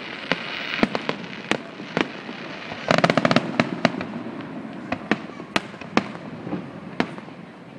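Aerial fireworks shells bursting in a grand finale: irregular sharp bangs, with a rapid cluster of reports about three seconds in.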